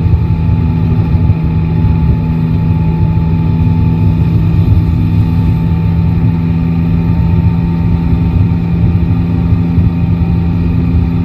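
Yamaha Tracer 9 GT motorcycle's three-cylinder engine running at a steady, unchanging engine speed, with a low rumble underneath.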